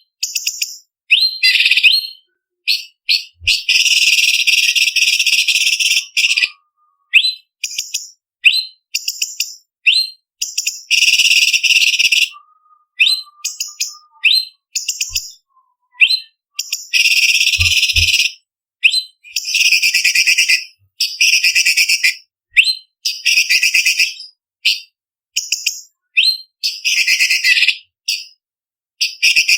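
Orange-bellied leafbird singing loudly: quick, sharp high-pitched chirps and whistled notes alternating with several long, rapid chattering trills, broken by short pauses.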